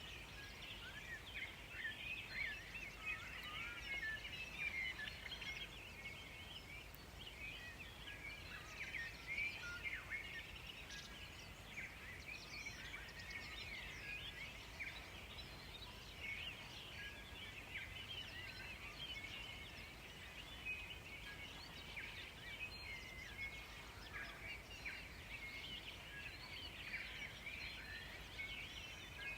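A dense chorus of many small birds chirping and twittering at once, with calls overlapping throughout, over a faint low hiss.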